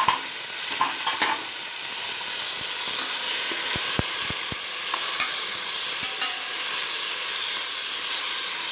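Chopped tomatoes, green chillies and ginger-garlic paste sizzling in hot ghee with browned onions in a pressure-cooker pot while being stirred with a spoon. The frying hiss is steady, with a few light knocks of the spoon against the pot.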